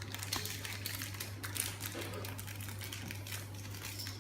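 Rapid, irregular light clicks and rustling of hands handling small plastic toy parts and their packaging, over a steady low electrical hum.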